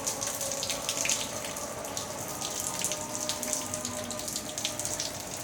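Rainwater pouring and splashing steadily, with many small splatters.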